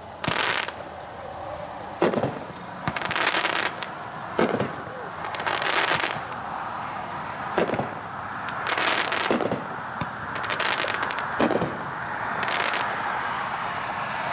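A 'Fire' 200-gram consumer firework cake, a 9-shot repeater, firing its shots: sharp bangs about every two seconds, each joined by a second or so of hissing and crackling from the aerial effects.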